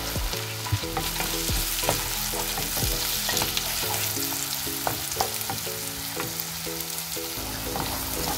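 Diced onion and garlic sizzling in butter in a nonstick frying pan, stirred with a wooden spatula that scrapes and taps against the pan now and then.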